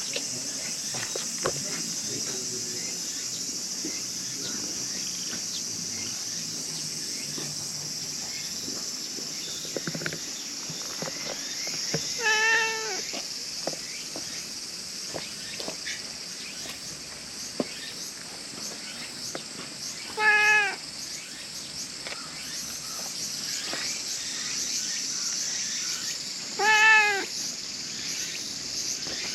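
Brown stray cat meowing three times, several seconds apart, each meow a short call that rises and falls in pitch.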